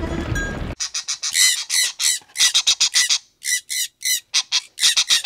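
Birds squawking: a rapid run of short, harsh, shrill calls in quick bursts with brief gaps. The calls start abruptly just under a second in, replacing a steady noisy sound that cuts off.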